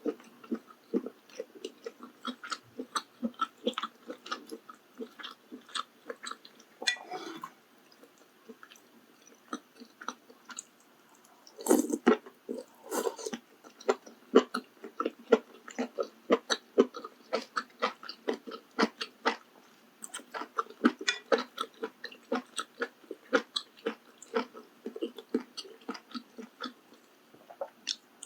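Close-miked chewing of maratang, the spicy Sichuan hot-pot soup with noodles and toppings: quick, wet mouth clicks and smacks, pausing for a few seconds about eight seconds in and resuming with a louder mouthful around twelve seconds.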